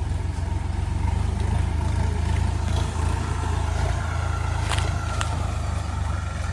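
Sonalika DI 50 RX tractor's diesel engine running steadily with an even low rumble, with two sharp clicks in quick succession about three-quarters of the way through.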